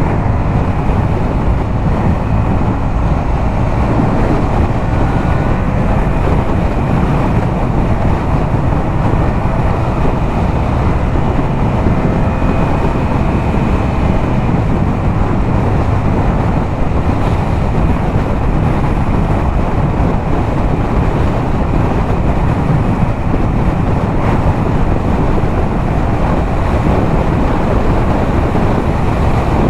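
Yamaha MT-07's 689 cc parallel-twin engine through a LeoVince aftermarket exhaust, running steadily at highway cruising speed, mixed with heavy wind rush on the camera microphone.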